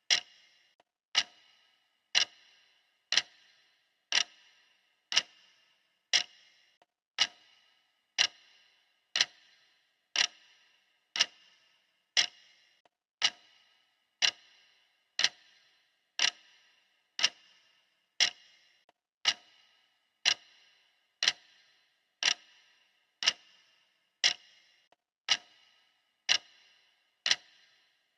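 Classic clock ticking, steady at about one tick a second, each tick sharp with a short ring.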